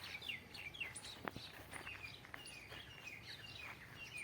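Small birds chirping, many short, quickly falling high notes repeated one after another, with a few faint clicks among them.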